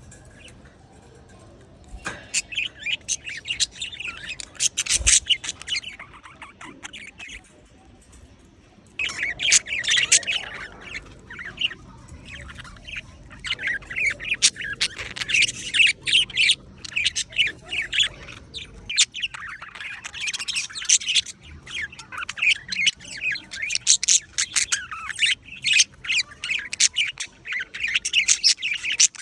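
Pet budgerigar chattering and warbling in quick chirps and squawks, the contented chatter that the owner takes as a happy bird. It starts about two seconds in, pauses briefly, then carries on almost without a break from about nine seconds.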